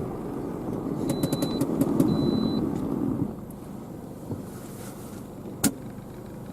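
Car driving slowly along a packed-snow road, heard through an open side window: a rumble of tyres and engine that swells, then drops off about three seconds in. Two short high beeps come in the middle, and a single sharp click near the end.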